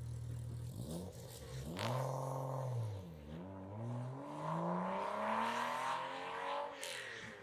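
Car engine accelerating under load: its note rises briefly, drops, then climbs steadily for about three seconds before falling away near the end.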